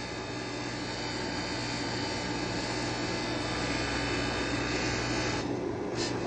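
Nespresso Vertuo Next coffee machine running a cleaning cycle without a pod, a steady mechanical whirr and hum that grows slowly louder. Near the end the hiss drops away, with one short burst of hiss.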